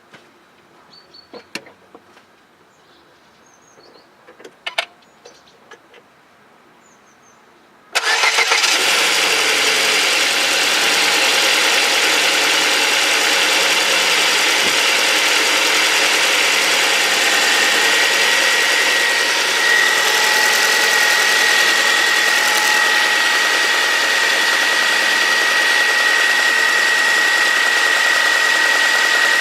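Ford Focus 3's 1.6 Duratec Sigma petrol four-cylinder, cold-started at +1 °C. A few faint clicks come first, then about eight seconds in the engine catches at once and settles into a steady idle, with loud fuel-injector ticking and a diesel-like tapping that the owner is unsure is normal for this engine. A thin high whine joins about halfway through.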